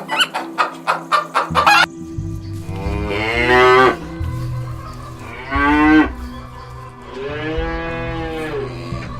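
Chickens clucking in quick short calls for the first two seconds, then a cow mooing three times in long, drawn-out calls.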